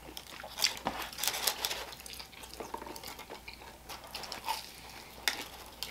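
Close-up chewing and biting of a crisp croffle, a croissant pressed in a waffle iron: faint, scattered little crunches and mouth clicks.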